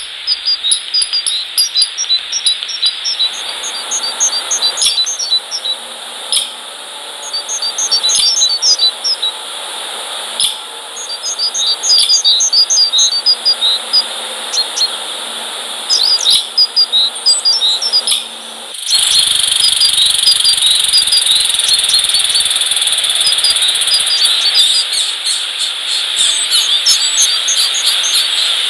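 Small birds chirping in short, quick high notes, over a steady high-pitched insect trill. About two-thirds of the way through, the steady trill abruptly becomes louder.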